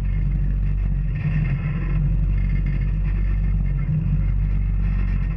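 Off-road vehicle engine running steadily on the trail, a low, even drone with no clear revving.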